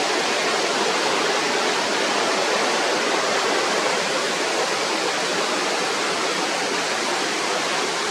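Steady rushing water, an even hiss that holds at the same level throughout.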